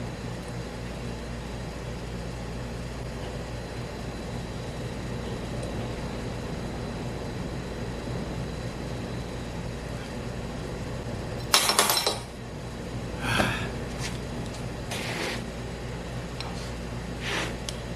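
Steady hum of shop equipment. About two-thirds of the way through there is a short, loud, crackling burst, followed by three fainter short bursts.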